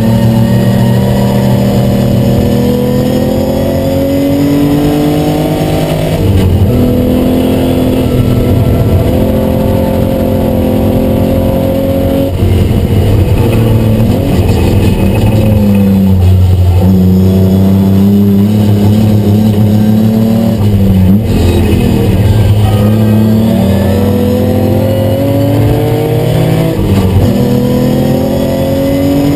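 Austin-Healey 3000's straight-six engine, heard from inside the cabin, driven hard. Its pitch climbs under acceleration and drops back sharply about five times.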